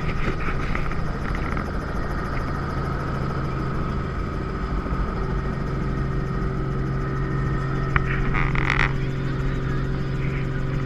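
Helicopter running in flight, heard from inside the cabin: a steady low drone with a steady higher whine over it. A short higher sound breaks in about eight seconds in.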